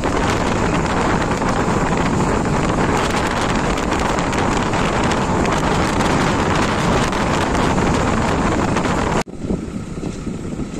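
Loud wind rushing over the microphone, mixed with the running noise of a passenger train heard from an open carriage window at speed. About nine seconds in, the noise breaks off suddenly into quieter outdoor sound.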